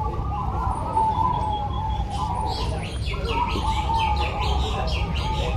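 Many zebra doves cooing at once, their wavering coos overlapping throughout. From about two seconds in, other small birds chirp rapidly in quick repeated notes over a steady low background rumble.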